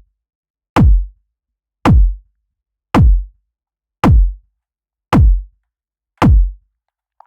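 Looped deep kick drum hits repeating evenly, about one every second, each with a falling pitch and silence between them.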